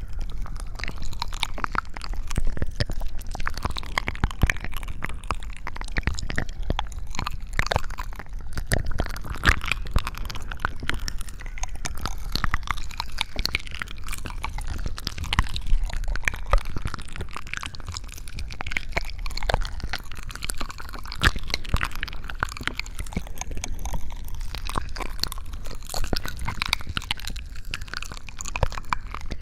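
Close-miked ASMR crunching and crackling: a dense, continuous run of small clicks with some wet squishing.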